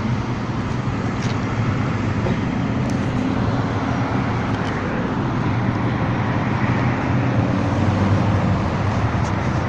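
Motorcycle engines running steadily with road and traffic noise, a constant low drone with no sudden changes.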